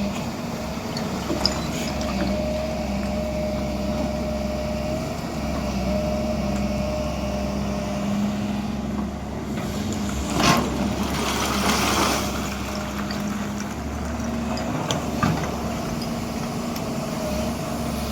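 Diesel engine of a tracked excavator running steadily while it digs a well. About ten seconds in comes a brief rush of noise over the engine.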